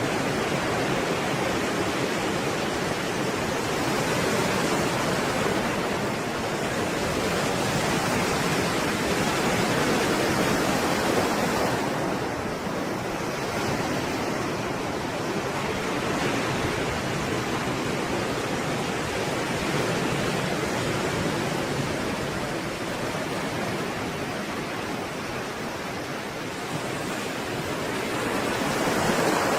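Stormy sea surf: a continuous rush of breaking waves that swells and eases every few seconds, with a louder wave surging near the end.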